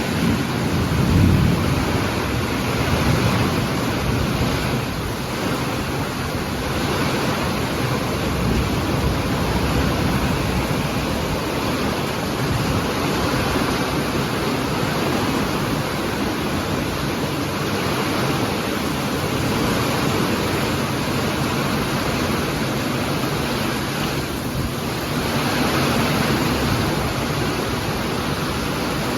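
Heavy monsoon rain falling steadily, a dense, even rush of noise.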